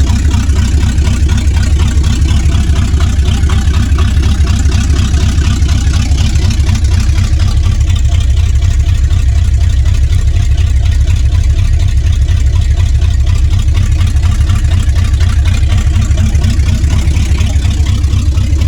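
Vehicle engine idling steadily while it warms up after a cold start, a loud, even, low running sound with a rapid regular pulse.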